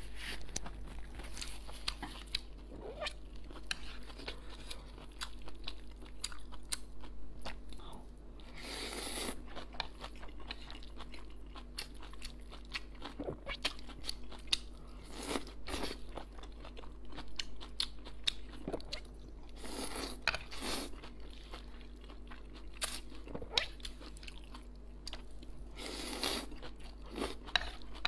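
Close-miked mouth sounds of someone eating stir-fried wide noodles and cured pork: steady chewing with many small wet clicks and smacks, and a few short, louder noisy bursts now and then.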